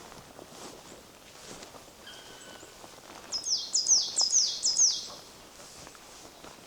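A songbird calling a quick series of five high whistles, each sweeping sharply downward, about halfway through; just before it comes a short steady whistled note. Faint footsteps sound on the forest path underneath.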